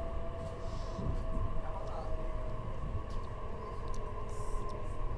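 E531-series electric train running at reduced speed: a steady low rumble of the running gear with a steady whine from the traction motors.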